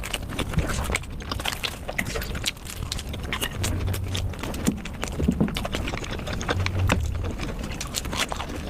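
A person eating spicy noodles close to the microphone: chewing, with a quick, irregular run of mouth clicks and smacks.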